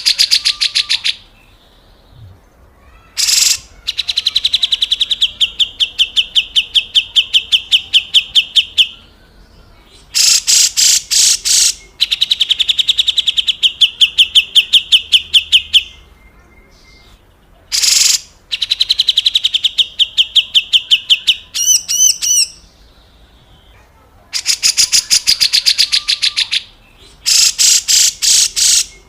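Cucak jenggot (grey-cheeked bulbul) giving its harsh rattling 'besetan' call: rapid strings of evenly repeated rasping notes in bouts of a few seconds, with short pauses between. There is a brief wavering trill about two-thirds of the way through.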